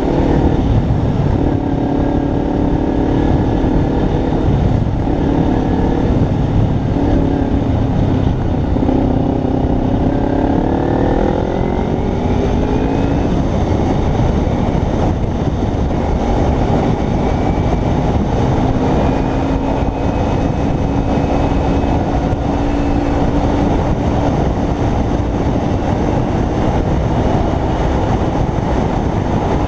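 Kawasaki Ninja 300's parallel-twin engine under way, with heavy wind and road noise. Its pitch dips and climbs over the first dozen seconds, rises steadily as it accelerates, then holds an even note at cruising speed.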